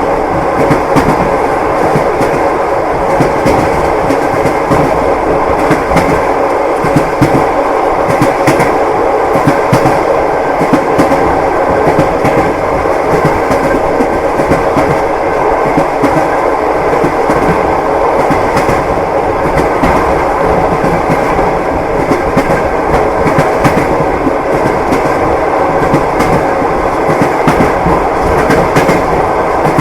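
Train carriage running along the rails: wheels clacking over the rail joints over a steady rumble and rattle, as heard from inside a compartment.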